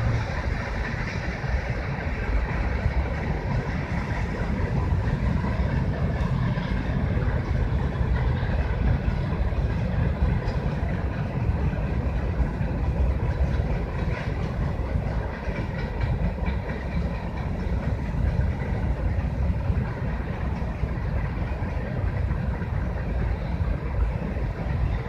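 CSX freight train rolling past, a steady low rumble of railcars on the track that runs on without a break.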